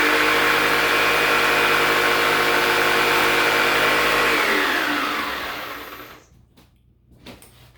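A small electric power tool running at a steady whine, then switched off about four seconds in and winding down, its pitch falling until it stops. A few light knocks follow near the end.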